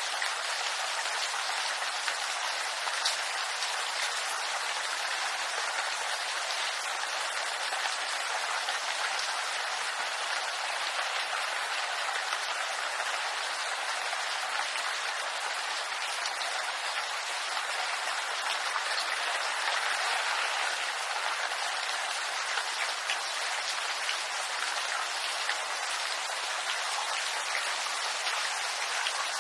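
Steady rain falling in a bamboo grove, an even hiss with scattered individual drops pattering.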